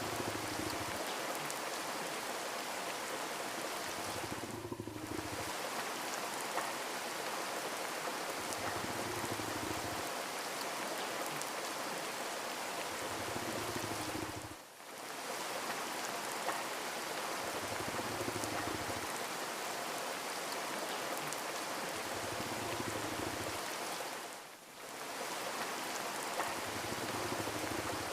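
Steady rain ambience, an even hiss of rain falling and pattering on surfaces. The hiss dips briefly three times, about ten seconds apart.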